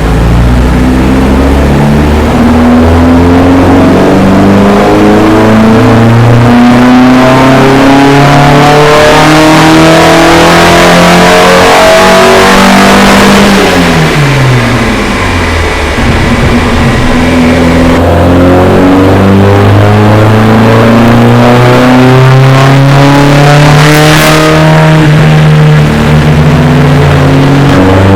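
Volvo B18 four-cylinder engine, freshly restored, running loud and being revved: its pitch climbs steadily for about thirteen seconds, drops back over the next few, then climbs again to a high, steady note.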